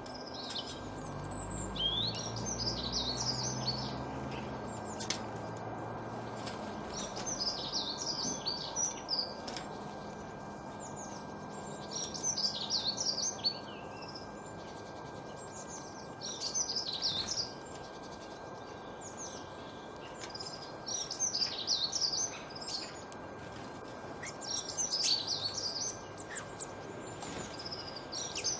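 A songbird singing a short, quick phrase of high chirps about every four seconds, over a steady outdoor hiss and a faint constant high tone. A low rumble fades out in the first few seconds.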